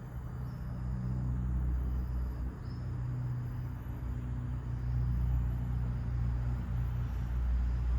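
Wind blowing steadily, a deep low rush, with a few faint, short high bird chirps over it.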